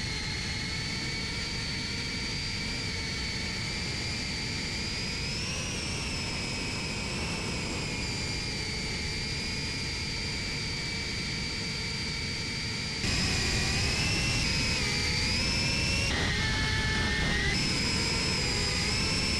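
FPV quadcopter's brushless motors and propellers whining steadily over a rushing noise, the pitch drifting a little with throttle. The sound gets louder about two-thirds of the way through, and near the end the whine briefly dips in pitch and rises again.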